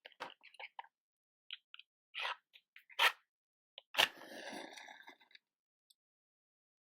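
Matches and matchbox handled close to the microphone: light ticks and scrapes, a sharp click about three seconds in. About four seconds in, a match is struck with a sharp scrape, followed by about a second of hissing flare.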